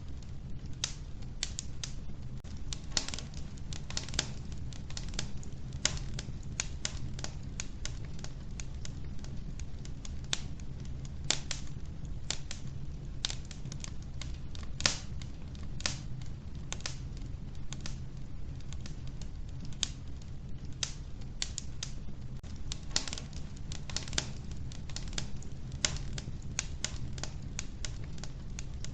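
Wood fire burning in a wood-burning stove: burning logs crackling with many irregular sharp snaps and pops over a steady low rumble of the flames.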